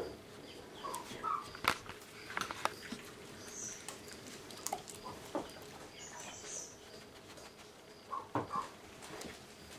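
A young coyote making a few short, soft squeaks, about a second in and again near the end, amid quiet scuffling and tapping.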